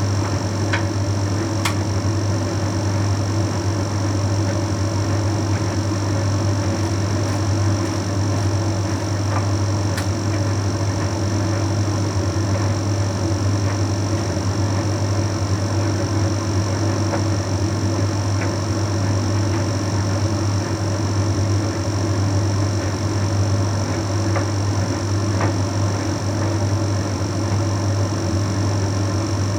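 Bosch Series 6 WQG245R9GB heat pump tumble dryer running mid-cycle, drying a load of shirts: a steady low hum under a continuous whirr, with a few faint ticks.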